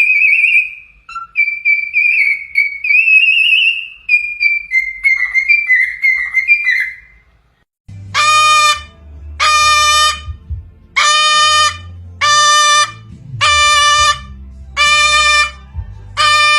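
A pet parrot whistling a wavering, warbling tune for several seconds. Then seven evenly spaced beeps about 1.4 s apart, like a vehicle's reversing alarm, over a low hum.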